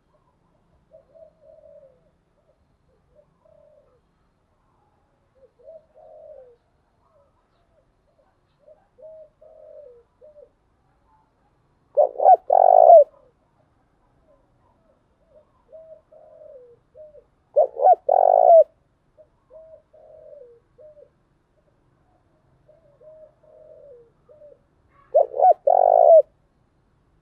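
Spotted dove cooing: soft, quiet coo phrases run throughout, broken by three loud coo phrases about six seconds apart, near the middle, after about 18 seconds and near the end.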